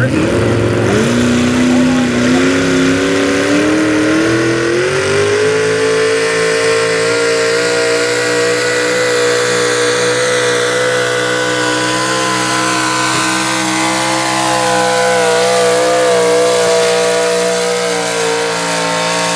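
Two-wheel-drive super stock pulling truck's engine at full throttle while pulling a weight-transfer sled: the revs climb over the first five seconds, then hold high and steady.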